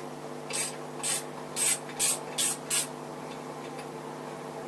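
Six short hissing spray bursts, a little under half a second apart, between about half a second and three seconds in.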